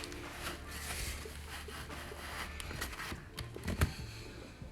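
Quiet work-handling sounds: light taps, clicks and rubbing, with a low hum in the first half and one sharper knock about four seconds in.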